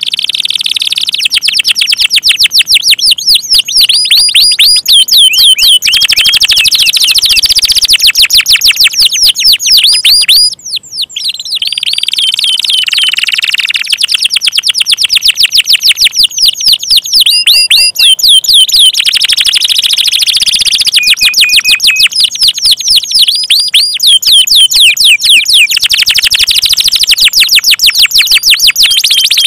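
Domestic canary singing continuously in fast trills of repeated chirps. The trill type changes every few seconds, with one short break about a third of the way in.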